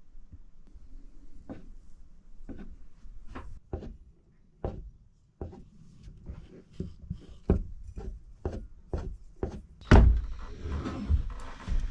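A run of irregular knocks, clicks and clunks in a small enclosed space, sparse at first and coming faster in the second half, with one heavy thump about ten seconds in.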